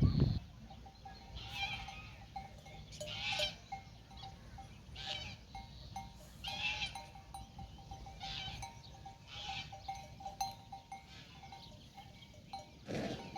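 Bells on grazing livestock clanking and tinkling irregularly, a jangle every second or two. A short falling sound comes near the end.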